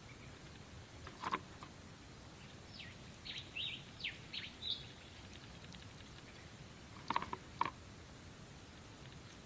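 A bird calling: a quick run of short, falling chirps in the middle. Sharp taps come about a second in and again as a quick cluster near the end.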